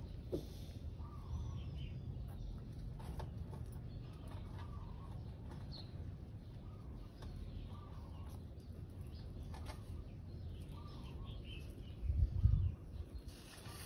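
Faint bird calls recurring every second or two over a steady low rumble, with a low thump about twelve seconds in.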